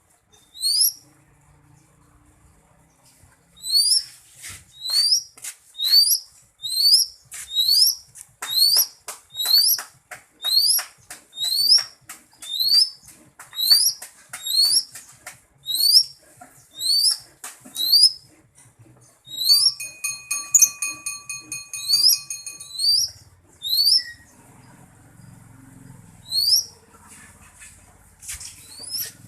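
Greater green leafbird (cucak ijo) singing: a long run of short, sharply rising whistles, a bit more than one a second. About two-thirds of the way through comes a few seconds of fast trill with steady ringing notes, then the rising whistles resume.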